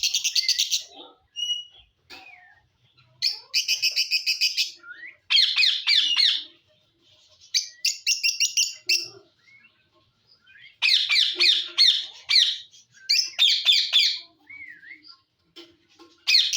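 Indian ringneck parakeet squawking: loud, harsh screeching calls in about six bursts, several of them rapid stuttering runs of many short notes, with brief pauses between.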